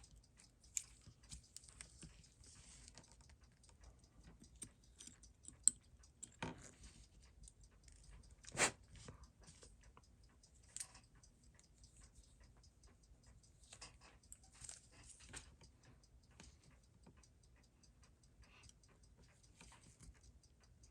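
Faint small clicks and taps of tweezers and tiny steel parts being handled during the disassembly of a Seiko 6139 chronograph movement, with a few sharper clicks in the middle.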